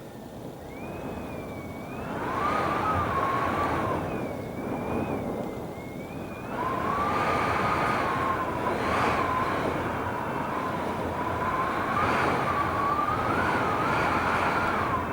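Strong gusting wind over 40 mph, rushing in two gusts, one about two seconds in and a longer one from about six seconds in, with a wavering whistle that drops lower in pitch while each gust blows.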